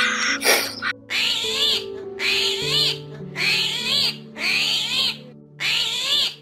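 An animal calling over and over, five arching cries about a second apart, over soft instrumental music with held notes.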